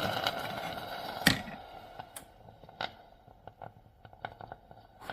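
Krups Sensation C50 bean-to-cup coffee machine finishing a cycle: its running noise fades out and ends with a sharp click about a second in. After that come quiet, scattered ticks.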